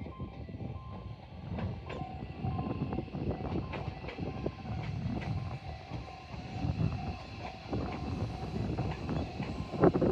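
Electric train on the Tobu Isesaki Line running through the station: a steady low rumble with irregular clicks of the wheels and a thin steady whine above it.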